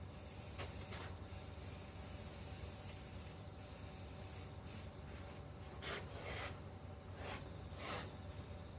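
Faint, short rubbing and scraping sounds over a steady low hum, with several close together between about six and eight seconds in.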